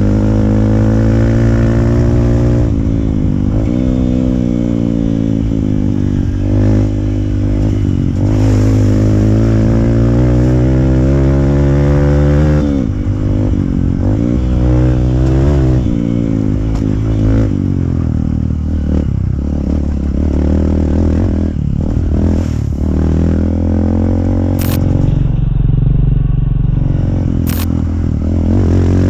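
Hero Impulse single-cylinder motorcycle engine through a free-flow exhaust, its pitch rising and falling over and over as the throttle is worked and gears change on a rough trail, with clatter from the bike over the ground. Two sharp ticks sound near the end.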